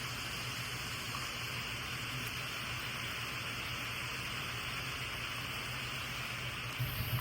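Heavy hurricane rain pouring steadily as a dense, even hiss. A low rumble swells just before the end.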